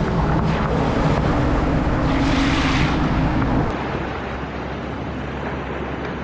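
Wind on the microphone over ocean surf, with a low steady hum through the first few seconds that stops abruptly about three and a half seconds in.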